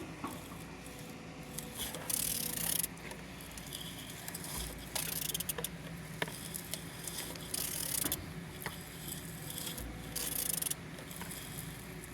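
Used 1N199 engine being turned over by hand, with metallic scraping and rattling in four short bursts about every two and a half seconds. The engine turns freely and is not seized.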